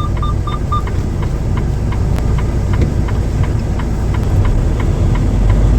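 A truck's diesel engine running with a steady low rumble. A rapid high beep, about four a second, goes on until about a second in, and faint regular ticking goes on throughout.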